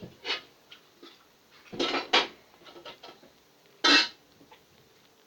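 Kitchen pots and utensils clattering: a few short clanks and scrapes, the loudest pair about two seconds in and another near four seconds.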